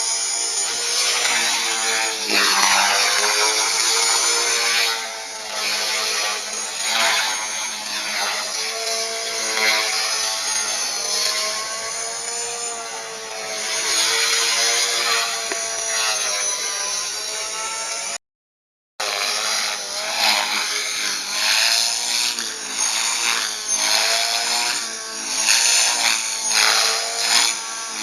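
250-size RC helicopter in 3D flight: its motor and rotor whine keeps rising and falling in pitch as the throttle and blade pitch change. The sound cuts out completely for under a second about two-thirds of the way through.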